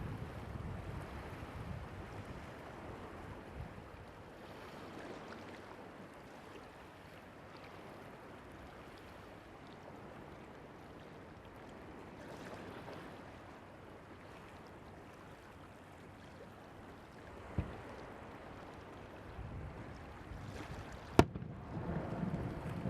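Surf washing on the shore with wind on the microphone. A dull thud comes about 17 s in, then near the end a single sharp, loud bang from a firework shell bursting over the sea, followed by a low rumble.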